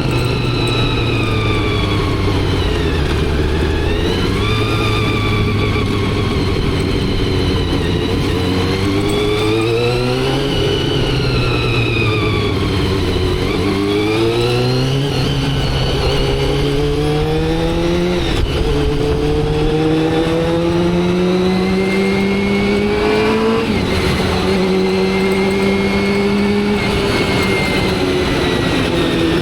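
Motorcycle engine under way, its pitch easing down early on, then climbing and dropping back several times about ten to nineteen seconds in as it shifts up through the gears, then running at a steadier, slowly rising pitch while cruising.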